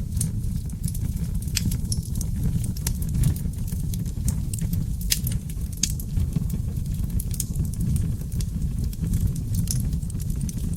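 Wood fire burning in a fireplace: a steady low rumble of flames with irregular sharp crackles and pops from the burning logs, a few louder snaps scattered through.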